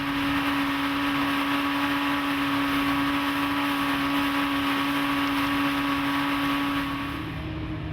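Evinrude 90 HP V4 outboard running at a steady cruising speed, a constant engine tone under the rush of wind and water. Near the end the rushing noise drops and the engine note shifts slightly higher.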